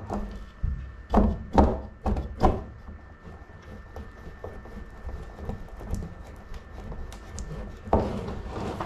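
Knocks and hollow thunks of hands and parts bumping against a large plastic barrel as someone works inside it: four in quick succession about a second in, and another near the end.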